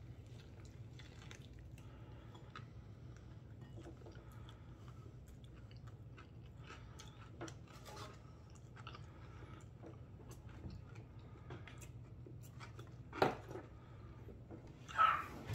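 A man chewing mouthfuls of a fried chicken sandwich: soft wet chewing with many small clicks and crunches, and a sharper, louder sound about 13 seconds in and again near the end.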